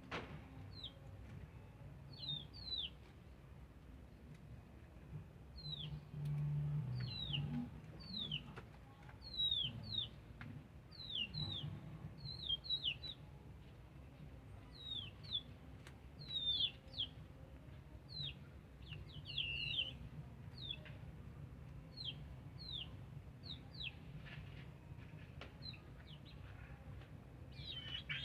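Small birds chirping: many short, high chirps that each fall in pitch, coming at an irregular pace, over a low steady rumble that swells briefly about six seconds in.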